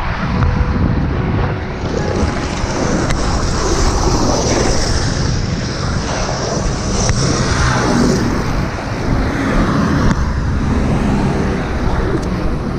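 Wind rushing over the microphone of a motorcycle rider's camera while riding, mixed with engine and road noise as a steady rumble.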